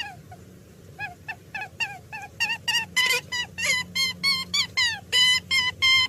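An animal giving a rapid series of short, high-pitched calls, about three to four a second, quiet at first and much louder from about two and a half seconds in.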